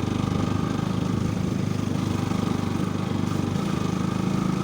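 Motorcycle engine running steadily at low revs, its firing pulses even throughout.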